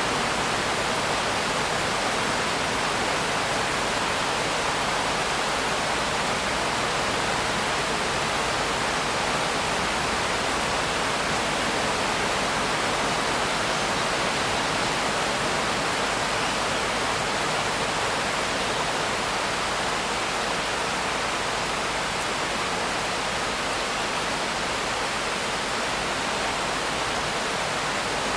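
Steady heavy rain falling, an even hiss with no separate drops, thunder or changes in level.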